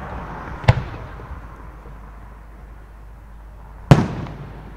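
Two loud bangs from professional display fireworks, about three seconds apart; the second is the louder and trails off briefly.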